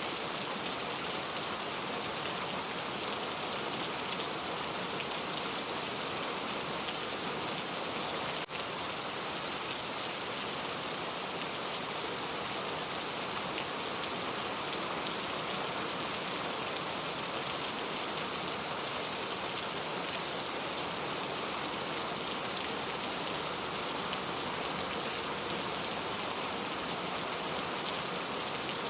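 Steady rain falling, a dense, even hiss with no let-up, broken only by a momentary dropout about eight seconds in.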